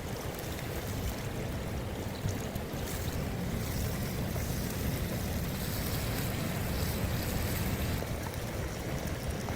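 Steady wind rushing, with a low rumble of wind buffeting the microphone.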